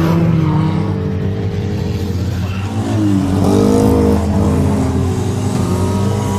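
Stock car engines running hard during a race, revving; the engine pitch drops about three seconds in, then climbs again as a car accelerates.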